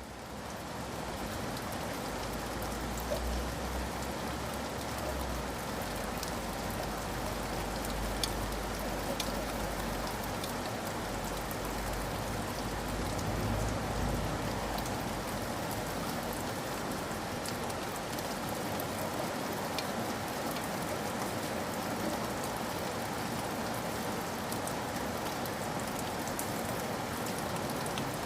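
Steady rain falling, an even hiss with scattered drop ticks, and a low rumble underneath for the first half.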